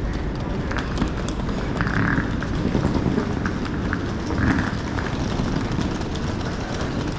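Busy airport terminal hall: a steady rumble of background noise with footsteps and scattered clicks as someone walks through.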